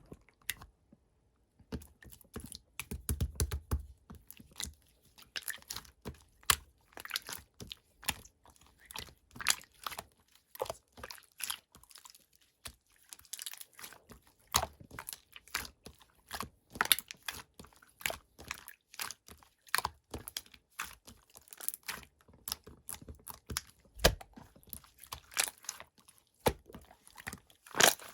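Red pearl slime being squished and pressed by hand: a dense, irregular run of sticky clicks, crackles and small pops. It starts about two seconds in.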